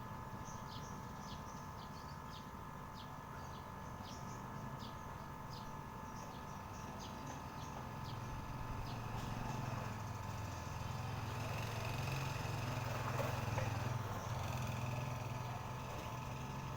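Small birds chirping in a quick series of short, high, downward chirps, most of them in the first half. Under them a steady hum runs throughout, and a low rumble of passing motor traffic swells from about halfway.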